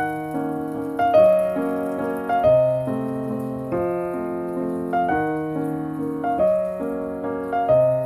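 Background piano music: a slow tune of notes and chords struck about once a second, each left to ring and fade.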